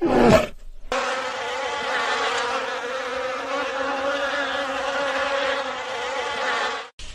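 Bee buzzing steadily with a droning hum that starts about a second in and cuts off abruptly near the end. It is preceded by a brief falling animal call.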